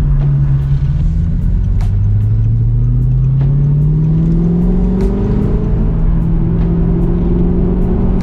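Car engine and road rumble while driving; the engine note climbs steadily as the car accelerates, then levels off at a steady cruise.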